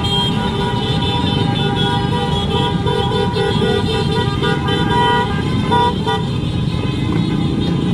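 Many motorcycle horns honking at once over the rumble of running engines, several horns held steadily together. In the middle, one horn sounds in quick repeated toots, about three a second, for a couple of seconds.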